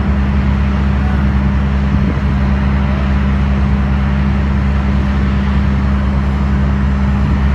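Steady, loud engine drone with a constant low hum under a rushing noise, from the ground vehicle towing a Boeing 787 along a taxiway.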